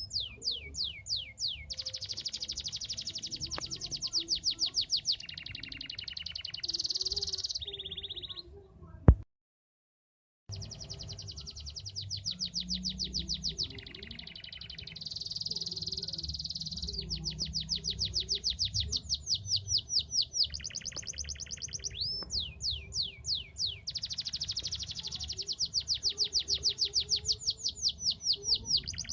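Domestic canary singing vigorously in fast trills, one rapid run of repeated notes after another, each run changing its pitch and speed. About nine seconds in, a sharp click and a second and a half of dead silence break the song before it resumes.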